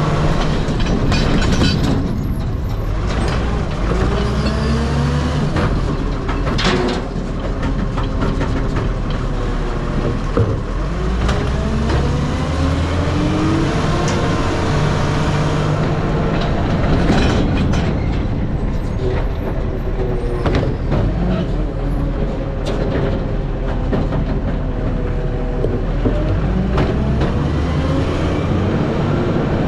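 Heavy diesel truck engine under way, its note climbing and dropping again several times as it pulls through the gears, over a steady low rumble of road noise.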